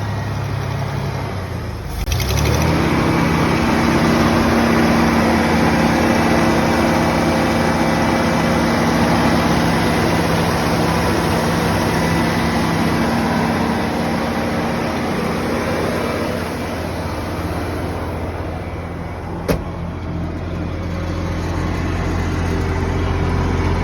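Ford 300 cubic-inch (4.9 L) inline-six, running on a carburettor with an HEI distributor, running steadily. Its note changes about two seconds in, there is a single sharp click about three quarters of the way through, and the engine settles to a lower, steadier note near the end.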